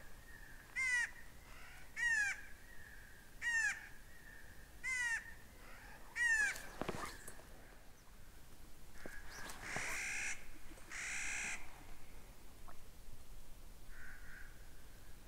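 Birds screeching: five loud, harsh calls repeated about every second and a quarter, then after a pause two longer, rougher calls.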